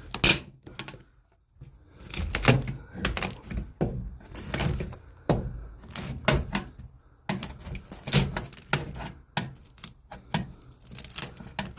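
A string of irregular sharp knocks, taps and scrapes from hand tools working nails out of old wooden framing.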